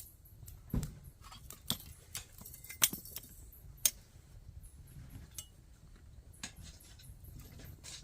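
A handful of sharp clinks and knocks from small hard objects, scattered and uneven, the loudest about three and four seconds in, over a low steady rumble.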